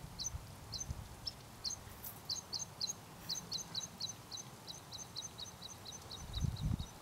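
A small songbird singing: a run of short, thin, high notes, each dropping slightly in pitch, spaced out at first and then quickening to about four or five a second. A low thud near the end.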